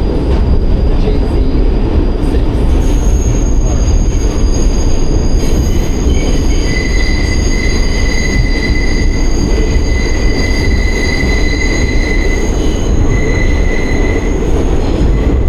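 New York City Subway Q train running with a loud, steady low rumble; a few seconds in, high steady squeal tones from the wheels come in over it, holding for several seconds and fading near the end.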